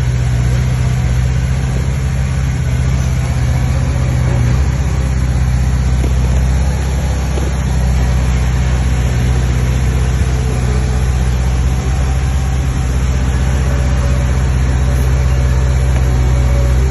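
Heavy diesel engine of earthmoving machinery running steadily under load, a deep, even drone.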